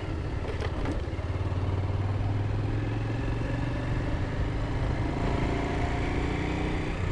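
Bajaj Pulsar single-cylinder motorcycle engine running steadily while riding at cruising speed, with a couple of faint clicks just under a second in.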